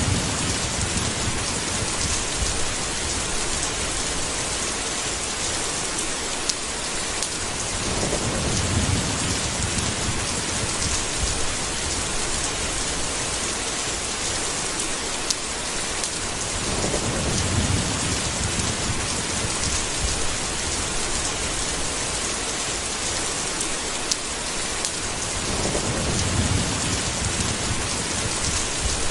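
Steady heavy rain falling, with a low roll of thunder three times, about every nine seconds.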